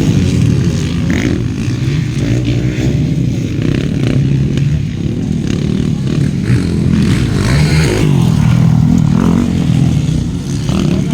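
Several motocross bikes racing, their engines revving up and down in pitch and overlapping one another.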